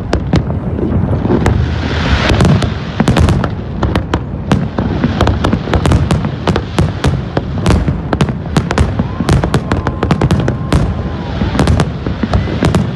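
Fireworks display going off in a dense, unbroken barrage: many sharp bangs and crackles each second over a continuous low booming rumble.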